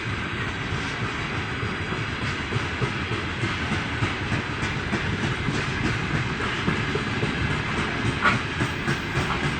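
Loaded freight wagons rolling slowly past, wheels clicking over the rail joints in a steady rhythm, with a short wheel squeal about eight seconds in.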